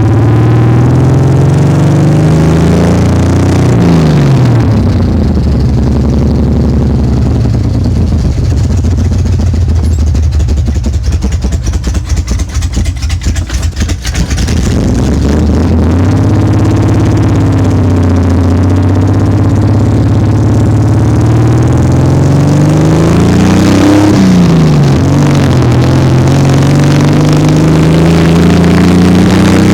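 Old pickup truck's inline-six engine through loud exhaust pipes, pulling through the gears: the note climbs steadily, then drops sharply at a shift about four seconds in, again about two-thirds of the way through and once more near the end. In the middle the note falls lower and turns uneven off the throttle before building again. The truck makes a lot of exhaust noise for little power.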